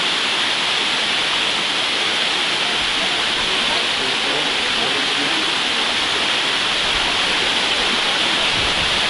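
Steady rush of a mountain waterfall's falling water, an even hiss with no breaks.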